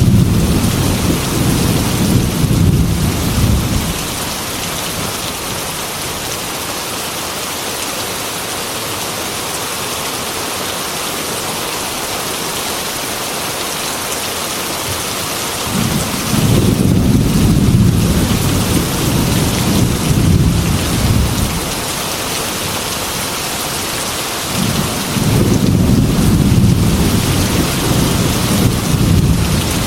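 Heavy rain on a glass window, a steady hiss throughout, with rolling thunder rumbling three times: at the start, again a little past halfway, and once more near the end.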